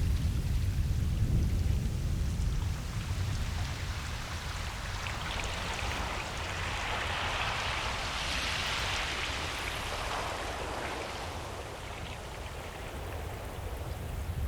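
Ocean surf on a beach: a low rumble of breaking waves at first, then the hiss of a wave washing up the sand, swelling in the middle and fading away.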